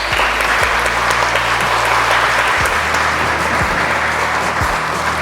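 Crowd of guests applauding, a dense steady clapping that starts all at once in answer to a call for a big round of applause.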